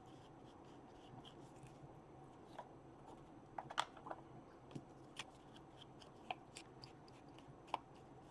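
Faint, scattered light taps and rubbing as paper is handled and its edges are inked with an ink pad and applicator, over quiet room hiss.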